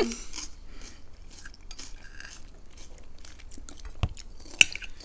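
Close-miked chewing of food, with many small mouth clicks. A low thump comes about four seconds in, followed just after by a single sharp click, the loudest sound.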